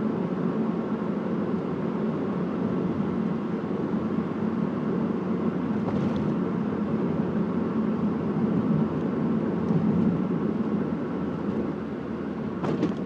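Steady engine and road noise of a moving car, a low even drone with a faint hum, easing slightly near the end, where a couple of faint clicks sound.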